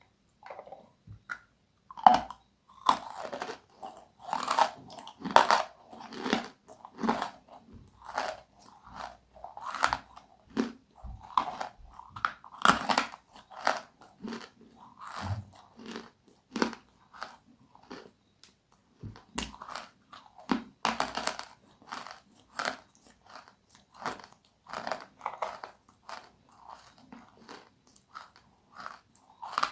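Close-miked crunchy eating: bites into something crisp followed by rapid crunching chews, a sharp crackle every fraction of a second with a few louder bites along the way.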